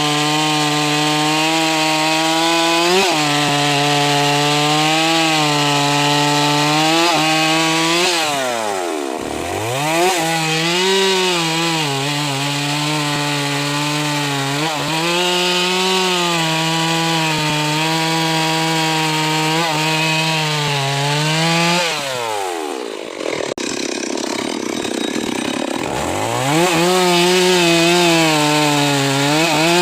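Stihl MS 381 two-stroke chainsaw running at high revs, cutting through wood. Twice, about eight seconds in and again past twenty seconds, the revs fall away and then climb back up as the cut resumes.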